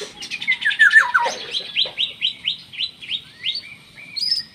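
Songbirds singing: a run of notes stepping down in pitch in the first second or so, then a quick series of short upward-sweeping chirps, about four a second.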